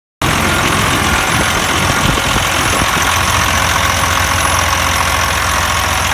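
Detroit Series 60 inline-six diesel in a Freightliner semi running steadily at idle, cutting in suddenly just after the start.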